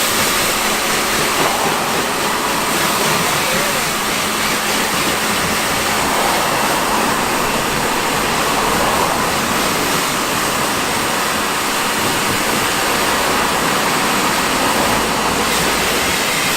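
Pressure washer spraying water onto a car's bodywork: a steady, loud hiss of the water jet that does not let up.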